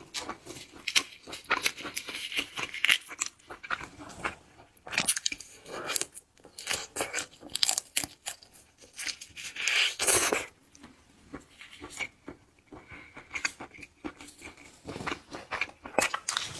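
Close-miked eating of shellfish: shells being bitten, cracked and torn, with crisp crunches and chewing in irregular clusters. About ten seconds in there is one louder, longer crack and tear.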